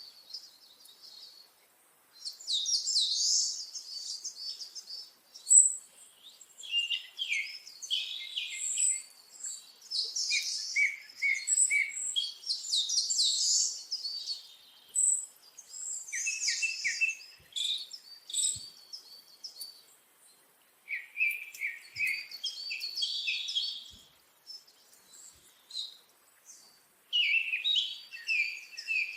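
Songbird singing: rapid, high-pitched chirping and twittering phrases, broken by a few short pauses.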